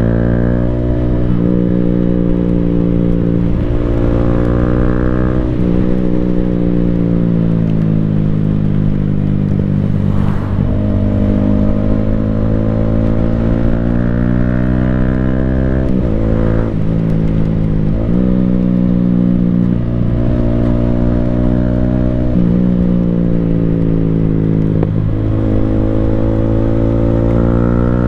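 Yamaha Sniper 155R's single-cylinder engine through an Akrapovic full-system exhaust while riding, working through the gears. The exhaust note climbs in pitch under throttle and drops sharply at each shift, about a dozen times, with the quick-shifter making the changes.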